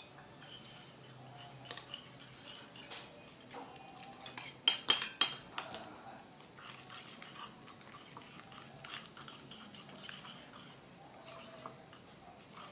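A utensil clinking and scraping against a bowl or dish, as in stirring slime ingredients, with a quick cluster of sharp, louder knocks about five seconds in.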